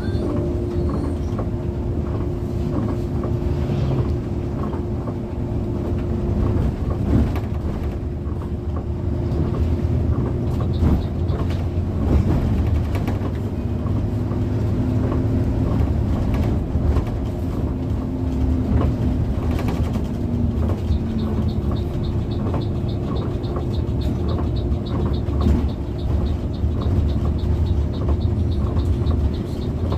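Steady engine and road rumble of a travelling bus heard from inside the cabin, with a constant hum over it. About two-thirds of the way in, a fast, even, light ticking starts and keeps going.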